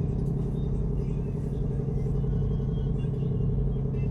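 A ship's engines running steadily: a deep, even hum that holds without change.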